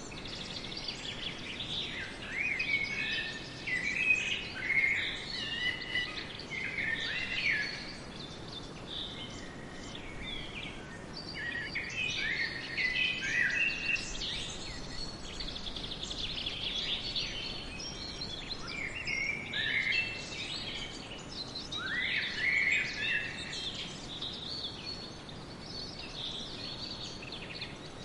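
Birds chirping and calling: many short high notes, some sliding up or down, coming in clusters over a steady low background hiss.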